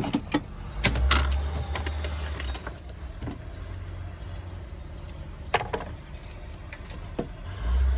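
Metal tools and hydraulic hose fittings clinking and clanking as a hose is worked on at a crimping press, with a low hum that comes in about a second in and again near the end.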